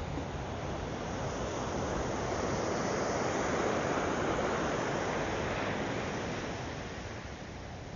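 Ocean surf on a sand beach: a wave breaks and washes up the shore, swelling to its loudest about three to four seconds in and then falling away.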